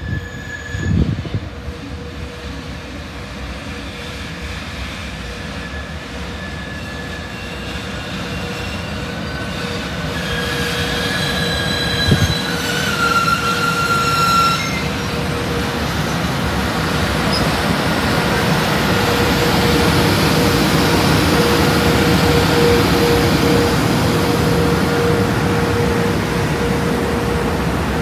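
JR Freight EH500 electric locomotive hauling a container freight train, running in and passing close by, its rumble growing steadily louder over a steady hum. High-pitched squealing tones come in about ten to fifteen seconds in, with a single knock near the middle.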